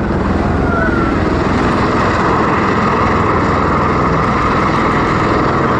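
V-22 Osprey tiltrotor's engines and proprotors running loud and steady: a fast low throb under a steady rushing whine.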